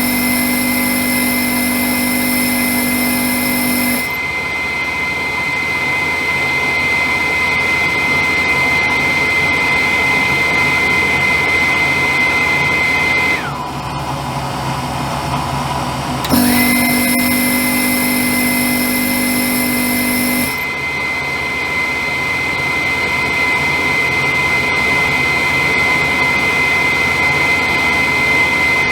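Hurricane diesel hydronic furnace running through an ignition attempt: a steady motor whine with a high tone. A lower hum joins in twice for a few seconds, and about halfway through the whine drops away for about three seconds, then comes back suddenly. No fuel reaches the burner's filter during this attempt, and it ends in a flame-out fault.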